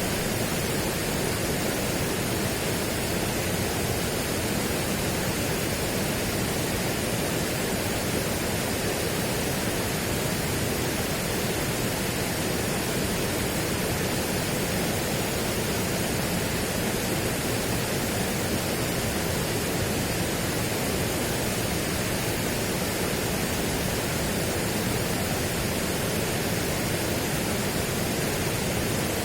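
Steady, unchanging rushing noise spread evenly from deep to high pitches, with no separate sounds or changes in it.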